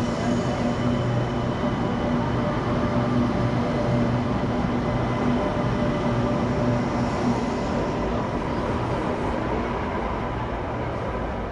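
Electric light rail train running past a station platform, a steady rumble of wheels with a constant motor hum, easing off near the end.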